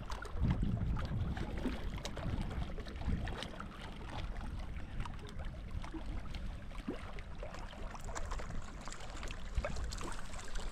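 Wind rumbling on the microphone outdoors, strongest in the first few seconds, with many small scattered clicks and taps.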